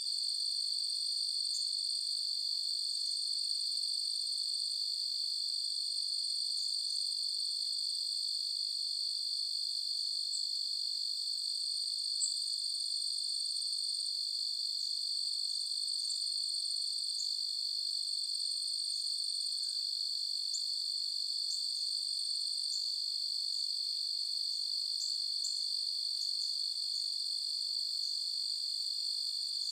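Crickets trilling in a dense night chorus: a continuous high-pitched trill that never breaks, with scattered short, higher chirps over it. A single faint click about twelve seconds in.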